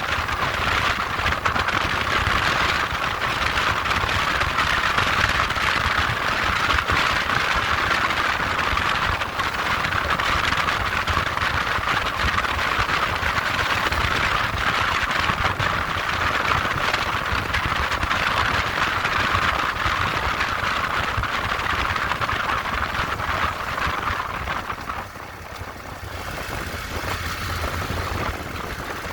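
Moped engine running steadily with a dense, fast-pulsing buzz, dropping off briefly about 25 seconds in before picking up again.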